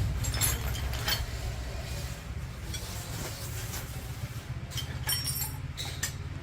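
Motorcycle engine idling with a fast, even low pulse, while metal tools or parts clink against each other a few times, with a short ringing clink about five seconds in.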